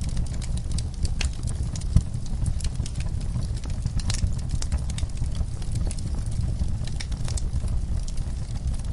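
Crackling fireplace with horses moving in their stall: scattered sharp crackles and clicks over a steady low rumble, with one louder crack about two seconds in.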